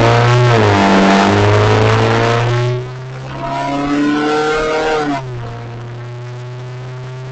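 Car engine running with its exhaust downpipe removed, so the exhaust is open and very loud, heard from inside the cabin. It accelerates hard with the pitch sliding, drops off briefly about three seconds in at a gear change, pulls again, then eases off to a steady, quieter drone about five seconds in.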